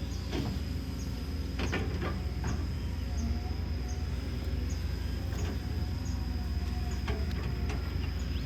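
Kobelco SK210LC excavator's Hino J05E-TG four-cylinder turbo diesel running steadily with a deep rumble, a constant high whine over it and scattered clicks and knocks.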